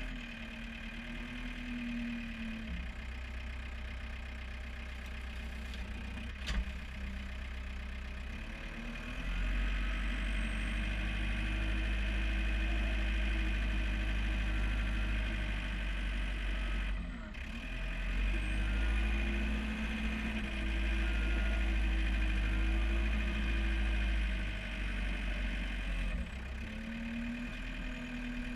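John Deere 4720 tractor's diesel engine running, with its pitch and loudness rising for two long stretches and settling back between them. A single sharp click sounds about six and a half seconds in.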